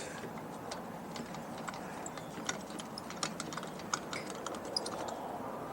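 Scattered light clicks and taps of tools and small metal parts being handled while an air compressor is taken apart, over a faint steady hiss.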